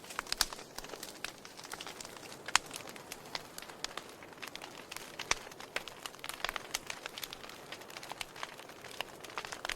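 Wood fire in a fireplace crackling, with irregular sharp pops and snaps over a steady soft hiss.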